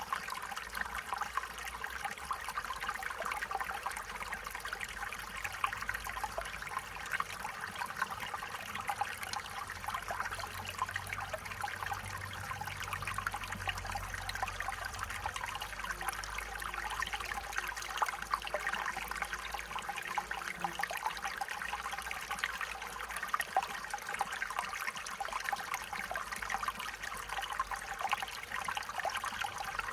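Stream water running steadily, a continuous trickling and babbling, with a faint low rumble for a few seconds midway.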